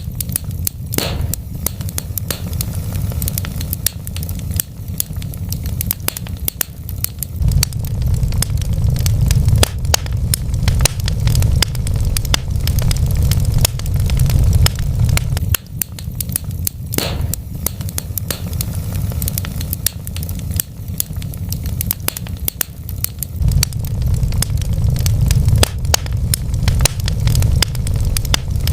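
Wood fire in a fireplace crackling, with frequent sharp pops and snaps over a steady low rumble of the burning logs.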